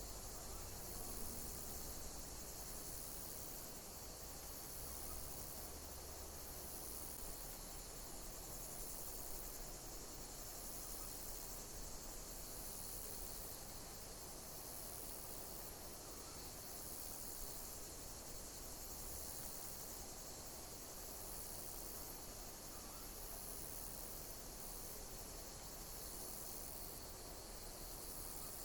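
Insects chirping in a steady high-pitched chorus, with one call repeating about every one and a half to two seconds.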